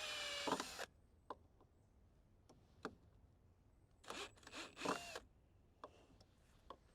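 Power drill driving screws into a wooden cover board: a short burst of motor whine at the start, then two more short bursts about four to five seconds in, with small clicks and knocks between.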